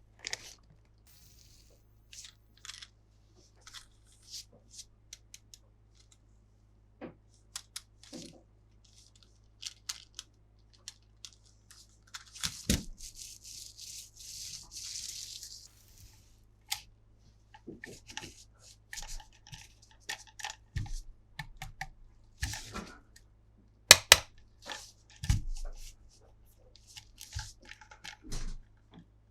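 Hands handling plastic toys and their packaging: scattered clicks and knocks of hard plastic, with a few seconds of crinkling, tearing packaging about halfway through and a couple of sharper knocks later on.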